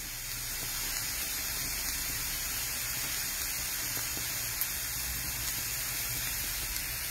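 Diced potatoes frying in oil in a skillet, a steady sizzle as they brown.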